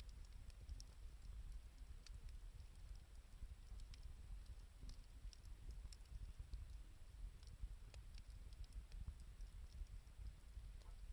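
Faint crackling of a wood fire burning 2×4 lumber and scrap wood: sparse, irregular small pops over a steady low rumble.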